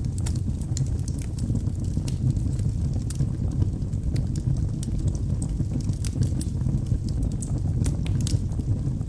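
Wood fire burning in a fireplace: a steady low rumble of the flames with frequent small sharp crackles and pops from the burning logs.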